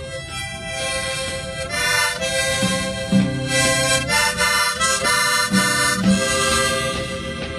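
Instrumental music: a free-reed instrument plays a melody in held notes over a lower accompaniment.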